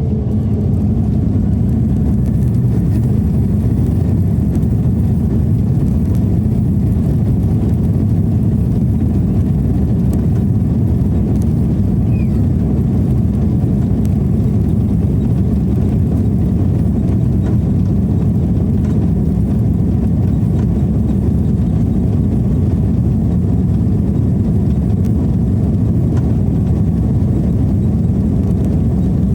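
Airliner jet engines at takeoff power heard from inside the passenger cabin: a loud, steady low roar that swells just at the start and then holds even.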